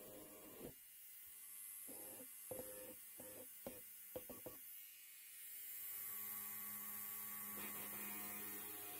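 Electric hair trimmer running with a low, steady buzzing hum, with a few quick clicks in the first half.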